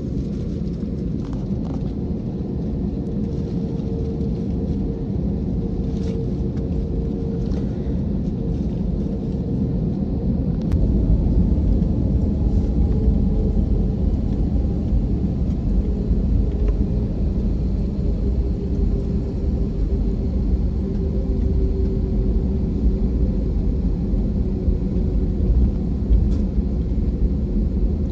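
Inside the cabin of an Airbus airliner: a steady engine and airframe rumble with a faint hum. About ten seconds in the low rumble grows heavier and louder and then holds.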